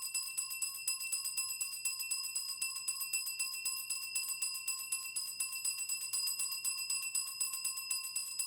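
Korean shaman's ritual bell cluster (bangul) shaken rapidly and without a break, a continuous high jingling over a few steady ringing tones, as the shaman divines.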